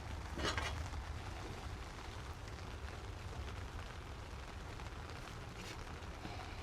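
Steady rain falling, with a constant low rumble underneath and a short crackle about half a second in.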